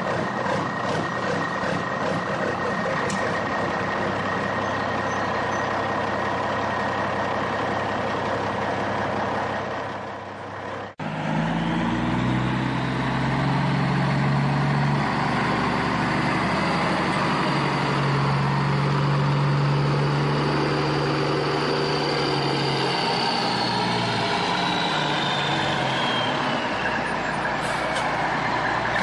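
Truck engine running, with a hard change about eleven seconds in to a steadier running sound with a low hum and a high whine that slides down near the end.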